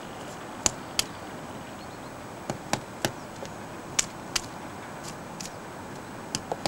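Woodpecker pecking at wood: sharp single taps at irregular intervals, about a dozen, not a drumming roll, over a steady hiss.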